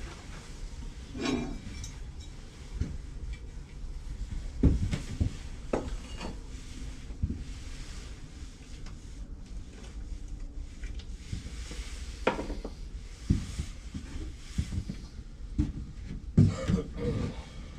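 Scattered knocks and clatter of wood and tools being handled and set down on a workbench, a few sharp clunks spaced irregularly, with no saw running.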